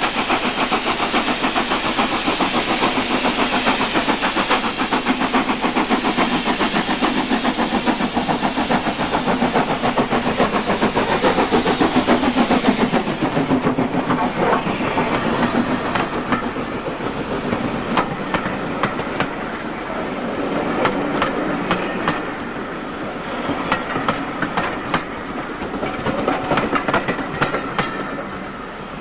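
A steam locomotive passing close by under power, its rapid exhaust beats loud at first and then fading. The carriages follow, their wheels clicking over the rail joints as the train draws away.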